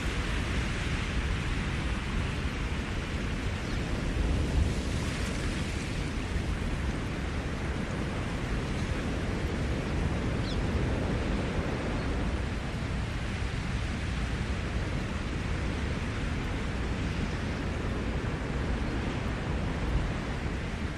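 Ocean surf breaking and washing on the shore in a steady rush, swelling louder about four to six seconds in. A single faint bird chirp sounds near the middle.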